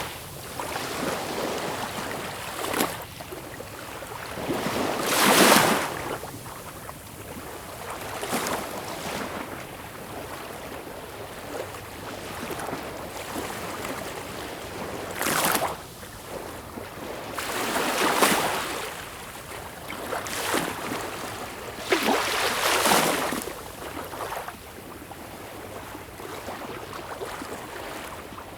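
Sea waves breaking and washing in: a steady hiss of surf with louder surges every few seconds, plus a few short, sharp splashes.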